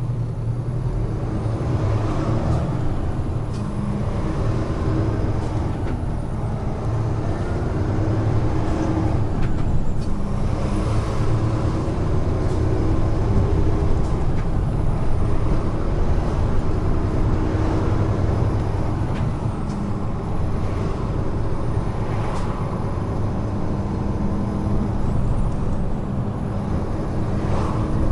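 Heavy truck running at expressway speed: a steady diesel engine drone with tyre and road noise.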